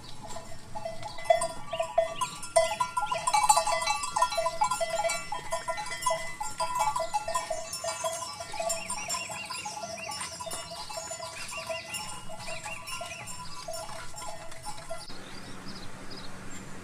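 Cattle bells clanking irregularly as a herd of cows walks, with small birds chirping over them. The bells stop abruptly about fifteen seconds in, leaving birdsong and a low hum.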